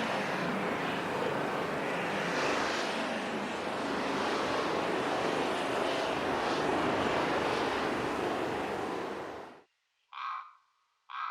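Strong winter wind howling in a steady rushing noise that cuts off suddenly near the end. Then come two short screeches about a second apart, the calls of a young female Iberian lynx in heat.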